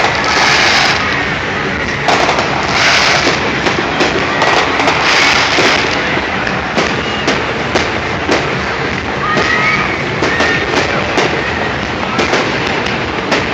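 Fireworks display: a rapid run of bangs and cracks, with denser crackling bursts near the start, about three seconds in and about five seconds in.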